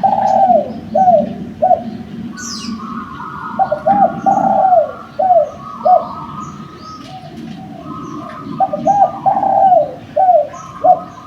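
Spotted dove (derkuku) cooing in three phrases of several coos each, a few seconds apart. Small birds chirp faintly in the background.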